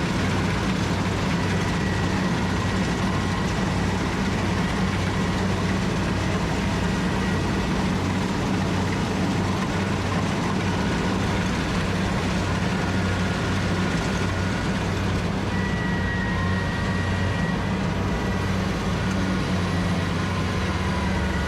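Rice combine harvester's engine running steadily under load, with a faint high whine from its machinery.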